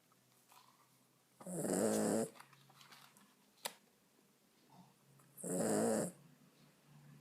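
Dog snoring: two loud snores about four seconds apart, each lasting under a second, with faint breathing between them and a short click in the middle.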